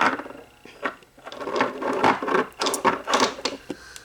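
Small objects being handled at close range: a quick, irregular run of clicks and rattles mixed with rustling for about three seconds, dying away near the end.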